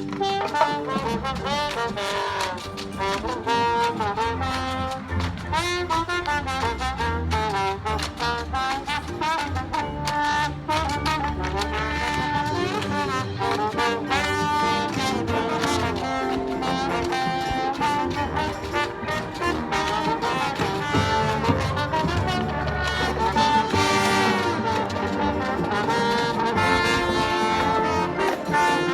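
Marching band playing: brass, with trombones and trumpets prominent, over steady percussion.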